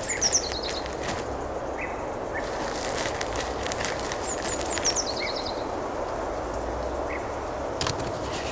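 Steady outdoor background noise with a bird singing a short falling run of high notes twice, at the start and about five seconds in, plus a few scattered single chirps and faint clicks.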